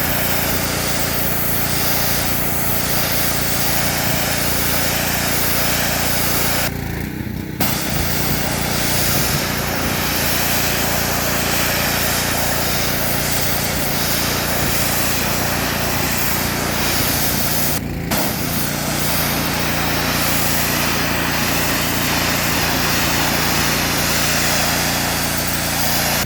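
Pressure washer running with its 15-degree nozzle spraying water at high pressure, blasting rust and paint off a truck's sheet metal. The spray cuts out briefly about seven seconds in and again around eighteen seconds in, while the machine's steady hum keeps going.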